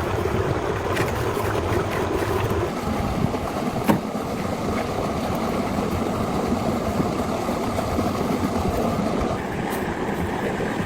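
A steady mechanical running noise, changing in tone about three seconds in, with one sharp knock a second later.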